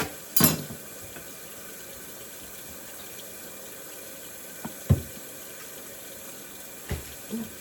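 Hot water running steadily from a kitchen faucet into the sink to fill it as dish water, with a few sharp knocks of things being handled, the loudest about half a second in and about five seconds in.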